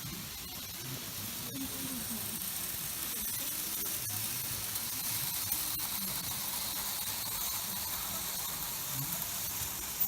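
Märklin model trains running on the layout: a steady high hiss from the running trains, slightly louder in the middle, with scattered small clicks from the track.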